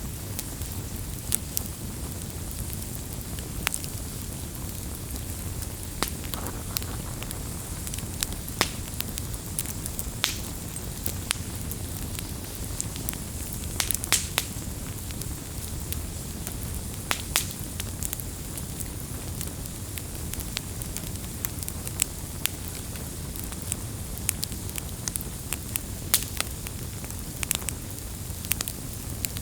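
Wood campfire burning: a steady low rush of flame with irregular sharp crackles and pops of burning wood.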